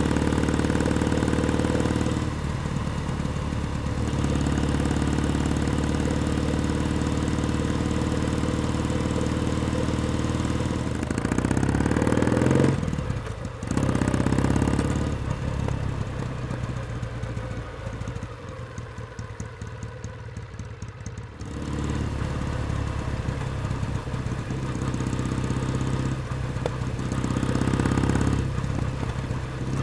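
Kawasaki W1 Special's 624 cc air-cooled vertical-twin engine running while riding. About halfway the revs climb to a peak and drop sharply. It runs quieter for several seconds, then picks up again.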